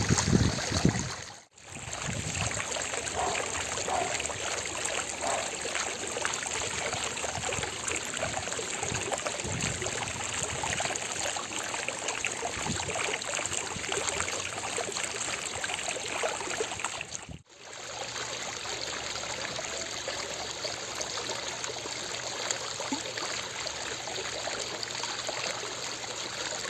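Fountain water splashing and falling in a steady, even rush. A low rumble sits under it for the first second or so, and the sound drops out briefly twice, about a second and a half in and again about 17 seconds in.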